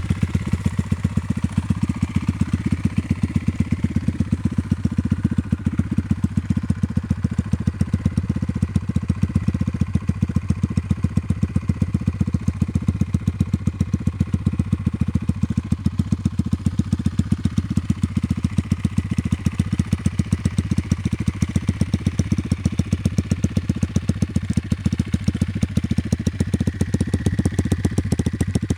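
Sachs MadAss motorcycle's 125cc Honda single-cylinder engine idling steadily with an even, regular beat.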